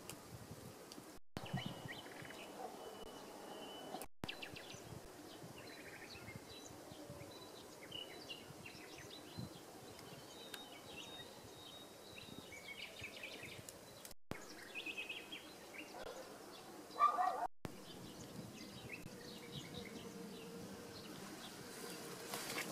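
Quiet outdoor ambience with birds chirping and singing in short, scattered calls, and one louder, lower call late on. The sound cuts out for an instant four times.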